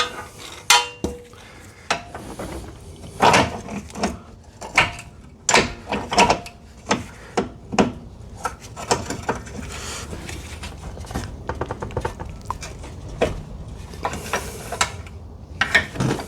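Irregular metallic clinks and knocks of hand tools against a car's steel suspension and drivetrain parts, a few strikes a second, none of them steady.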